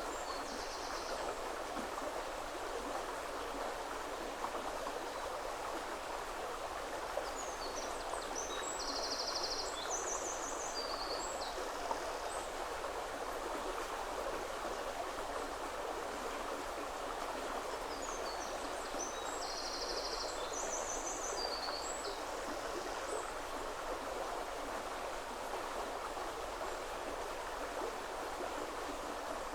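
River water flowing steadily over stones, a continuous even rush. A small songbird sings short bursts of high, rapid trills and chirps over it three times: at the start, about a third of the way in, and about two-thirds in.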